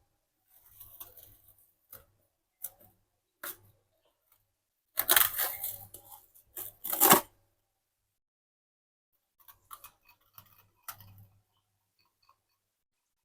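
Scattered small clicks and rustles of objects being handled, with a louder stretch of rustling from about five seconds in that stops just after seven seconds.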